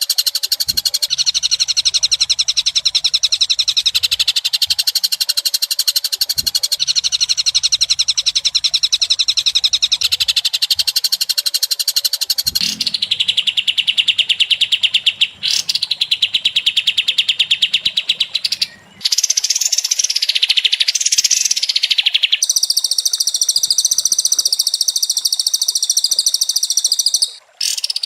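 High, buzzy bird trills, very fast and rapidly pulsed, in a chain of segments that switch abruptly every few seconds, as in an edited birdsong lure recording.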